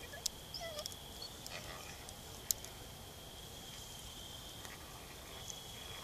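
Campfire crackling with a few sharp pops, the loudest about two and a half seconds in, over a steady high-pitched whine; a couple of faint short yips sound about half a second in.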